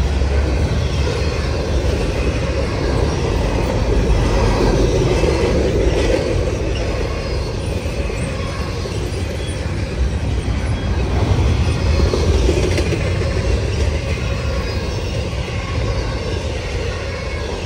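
Long freight train's cars rolling past at track side: a steady, loud rumble and clatter of steel wheels on the rails.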